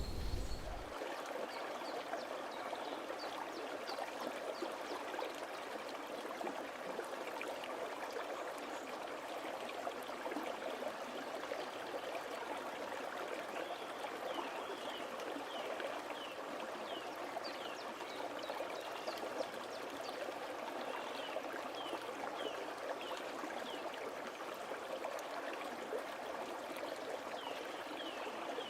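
Stream water running steadily, with short, high, falling chirps scattered over it.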